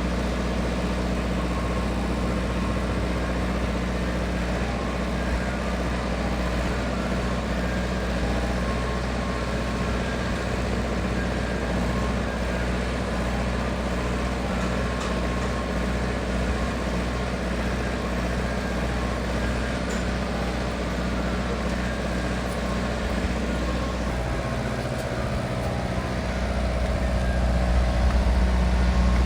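A vehicle engine idling steadily, with a low, even hum, getting louder near the end.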